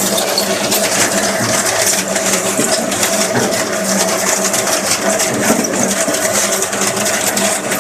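Polystyrene foam hot-melt compactor running: a steady motor hum under a dense, continuous crackle.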